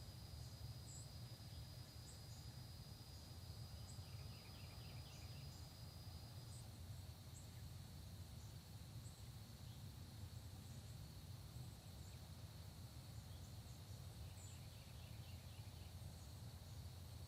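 Faint countryside dawn ambience: a steady high drone of insects, one voice dropping out about six seconds in while a slightly lower one carries on, with scattered faint high bird chirps and two short trilled series of notes. A low steady hum lies underneath.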